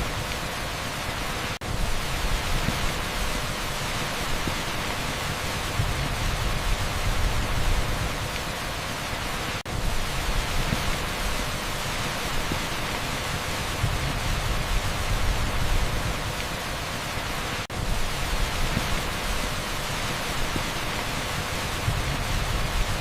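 Heavy downpour on a street: a dense, steady hiss with a low rumble that swells and fades, broken by a brief dip in level three times, about eight seconds apart.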